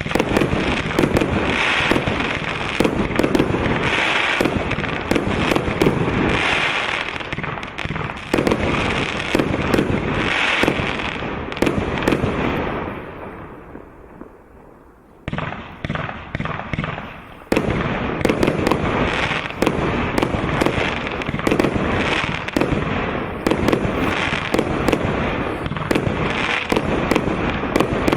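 A 30 mm automatic firework cake firing a rapid, continuous string of small aerial shells (bombettes), each launch and burst overlapping with crackle. The barrage fades out a little past halfway, then starts again abruptly and builds back to full density.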